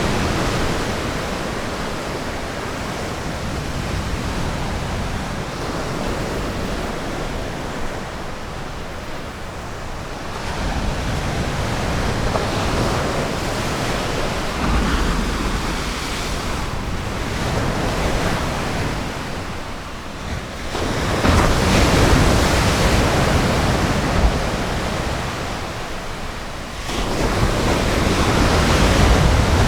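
Ocean surf washing onto a beach: a continuous rush of noise that swells and fades as waves come in, with several louder surges, the strongest in the second half.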